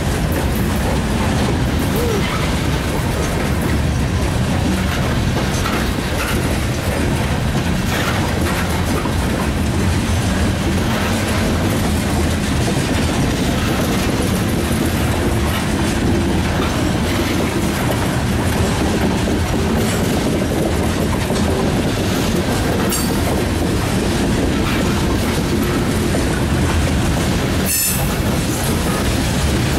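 Norfolk Southern coal train's hopper cars rolling past close by: a steady, loud rumble of steel wheels on the rails.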